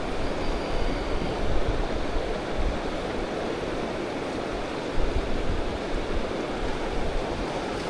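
Rushing stream rapids: a steady, dense roar of water, with irregular low rumbles of wind on the microphone.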